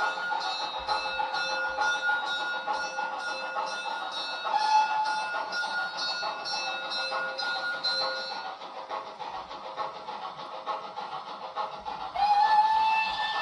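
Sound decoder of a Roco H0 model BR 56 steam locomotive playing steady steam chuffing through the model's small speaker, with a steam whistle starting near the end.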